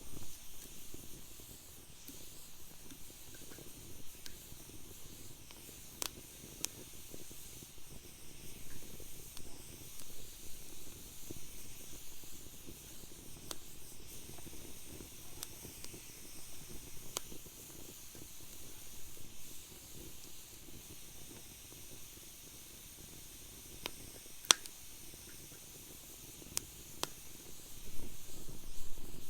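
Wood fire burning in a fire pit: a steady low rustle of flames with scattered crackles and sharp pops, the loudest pop about three-quarters of the way through, and the fire growing louder near the end.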